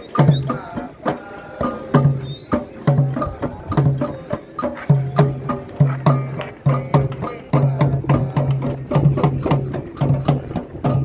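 Candomblé drumming: atabaque hand drums playing a fast, dense rhythm of sharp strikes over repeated deep, booming drum tones.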